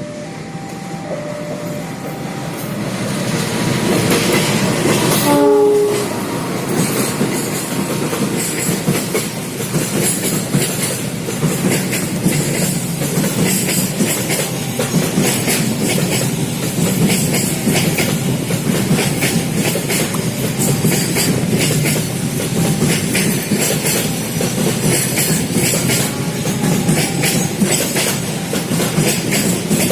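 A train approaching and passing close by: its noise swells over the first few seconds, a short horn blast sounds about five seconds in, and then the wheels clatter over the rail joints in a long, steady run of clicks as the carriages go by.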